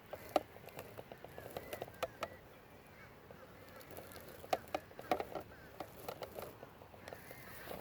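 Waterfowl calling at a lake: short, sharp honking calls come irregularly throughout, with a few small chirps mixed in.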